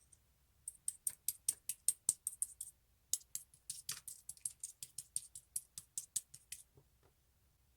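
Clear slime being pressed and squeezed by hand, making rapid crisp clicking pops at about five a second, in two runs with a short break about three seconds in.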